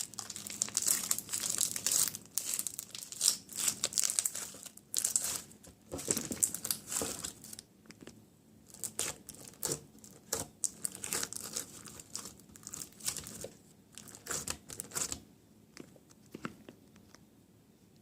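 Crinkling, crackly rustling as something crinkly is handled by hand, dense for the first half, then in shorter scattered bursts that die away near the end.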